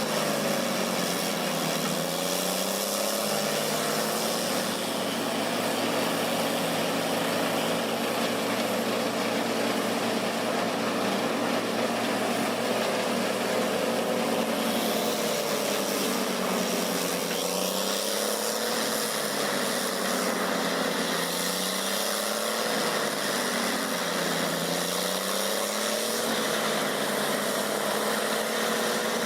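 Large wood chipper's engine running steadily, its pitch dipping and recovering every few seconds over a constant noisy roar of the machine.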